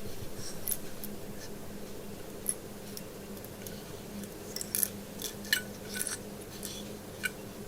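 A plastic scale-model engine shaken by hand, with a small loose piece of wire rattling inside it in light, irregular clicks.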